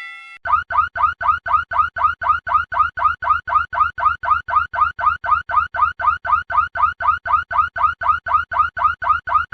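Electronic alarm sound effect like a car alarm: a short rising whoop repeated rapidly, about four times a second. It starts about half a second in, as a held ringing tone cuts off.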